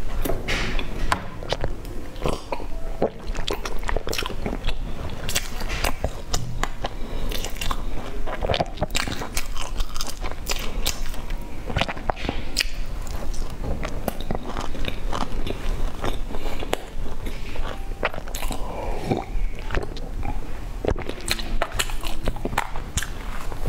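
A person biting and chewing a soft bun with a shredded topping close to the microphone: continuous wet mouth sounds broken by many sharp crunchy clicks.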